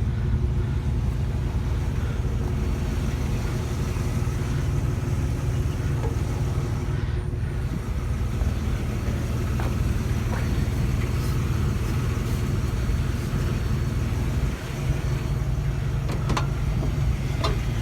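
A car driving, with a steady low rumble of engine and road noise and a few faint clicks and rattles.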